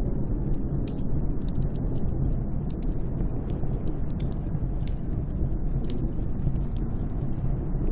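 Snowstorm wind blowing steadily, a deep rushing rumble with a faint wavering howl, scattered with many small sharp crackles.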